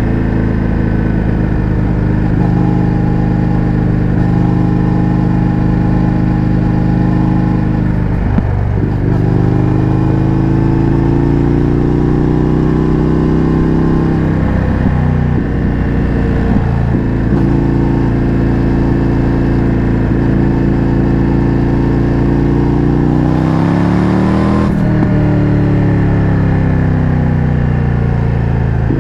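Indian FTR 1200 V-twin with an Akrapovič exhaust running under way at mostly steady revs, with a few brief breaks in the note, as at gear changes. Near the end the revs climb and then drop sharply.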